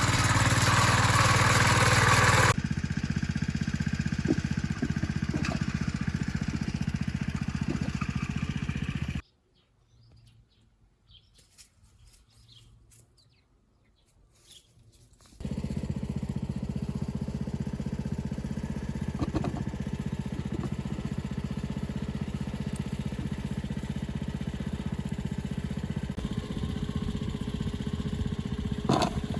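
An engine running steadily. It drops abruptly to near silence for about six seconds in the middle, then runs again.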